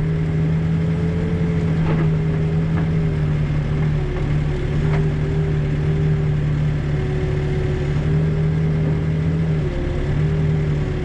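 Backhoe's diesel engine running steadily while digging in hard shale, its pitch sagging briefly under load about four seconds in and again near the end. A few faint knocks come through over the engine.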